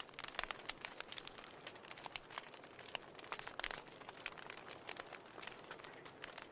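Wood fire in a fireplace crackling: irregular sharp pops and snaps over a soft steady hiss of burning.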